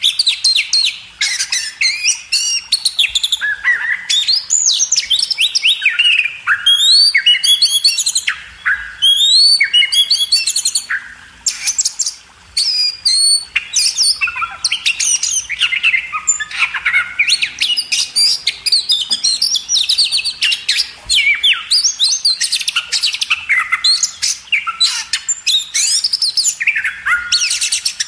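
Several small birds chirping and calling in quick, overlapping chirps, almost without a break, easing off briefly about twelve seconds in.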